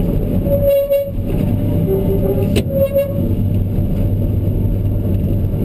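Kobelco SK210 excavator's diesel engine running steadily, heard from inside the cab. A few short tones sound in the first few seconds, and there is one sharp click about two and a half seconds in.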